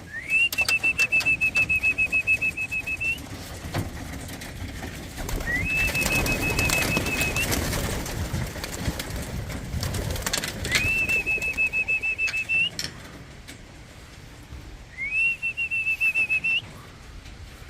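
Four long whistle blasts, each sliding up at the start and then holding one high, trilling pitch for two to three seconds: a pigeon fancier's whistle signalling racing pigeons to fly from the loft. Between blasts, strong wind rushes on the microphone, with a few sharp clacks.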